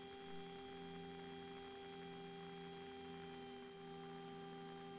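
Faint, steady electrical hum with several constant tones and light hiss. This is the quiet background of the headset and intercom audio feed between transmissions.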